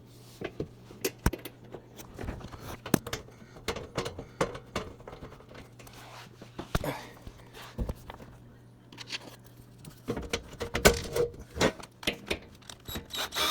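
Irregular clicks, taps and light clatter of a screwdriver, screws and metal parts being handled while the dishwasher is screwed back together, over a faint steady hum.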